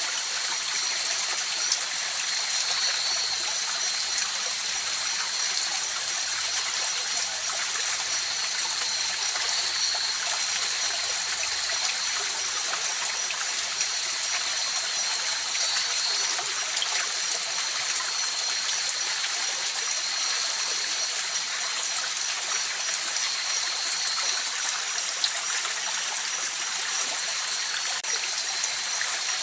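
River water flowing in a steady, even rush with some trickling, and a thin, steady high-pitched tone running above it.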